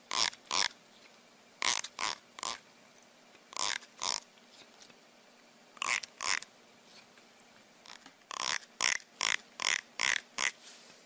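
Teeth of a plastic comb strummed with a finger, giving short rasping strokes, mostly in pairs, then a faster run of about seven strums, roughly two a second, near the end.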